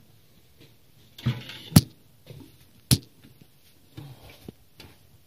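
Two sharp clicks about a second apart amid light rustling and fainter ticks: the refrigerator thermostat's wiring and fittings being unclipped by hand.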